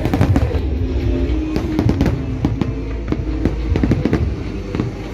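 Fireworks going off in a quick, irregular run of bangs and crackles, with music playing along.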